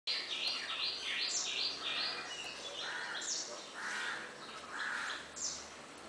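Several birds calling: a quick run of repeated high notes, about two or three a second, then three harsher, lower calls about a second apart, with thin falling whistles between them.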